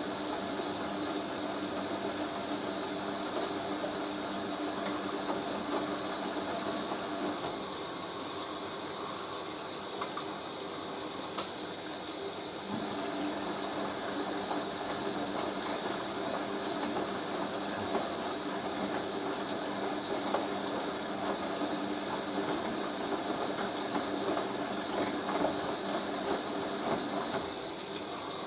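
Hoover A3060 Electronic 1100 washing machine filling for its first rinse while the drum tumbles: a steady hiss of water running in, with a steady low hum. Irregular small knocks and splashes from the turning drum become more frequent from about halfway.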